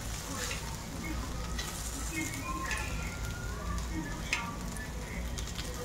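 Tandoori-spiced soya chunks sizzling as they fry on a hot tawa griddle, with metal tongs clicking against the pan as the pieces are turned, once sharply a little past the middle. A steady low hum runs underneath.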